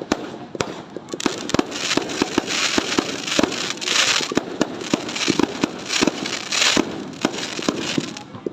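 Fireworks going off: a rapid, uneven string of sharp bangs, with bursts of crackling hiss between about one and seven seconds in.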